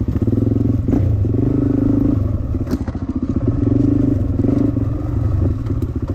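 Dirt bike engine running under way, its revs rising and falling repeatedly as the throttle is worked, with a couple of brief knocks about one and three seconds in.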